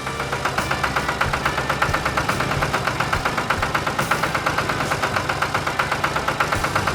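Vehicle engine running with a rapid, even chugging of about seven beats a second, starting suddenly.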